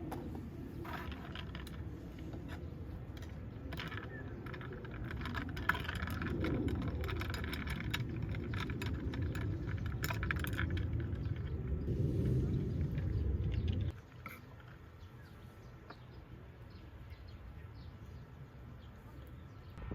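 Small metal items clinking and jangling, over a low rumble that cuts off abruptly about fourteen seconds in.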